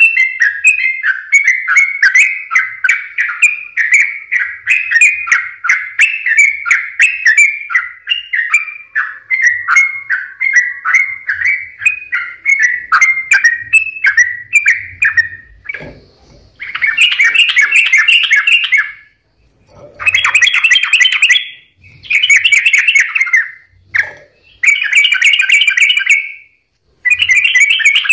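Yellow-vented bulbul song: a long run of quick, bubbling notes, then from about halfway through, dense bursts of song about two seconds each, broken by short pauses.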